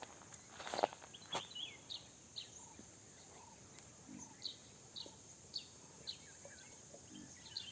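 A small bird giving short, high, down-slurred chirps, repeated about twice a second, over a steady high hiss of outdoor background. A few sharp knocks in the first second and a half.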